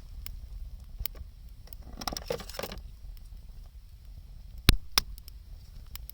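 Wood bonfire crackling, with scattered sharp snaps and two loud pops about half a second apart near the end. A brief rustling noise comes about two seconds in.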